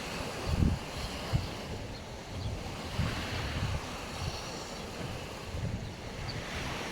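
Sea waves washing onto the shore, with wind buffeting the microphone in low gusts, most strongly about half a second in.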